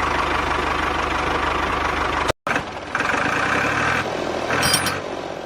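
Small engine or motor running steadily with a fast, even knocking pulse. It cuts off suddenly about two and a half seconds in, then runs again with a changed, rougher tone.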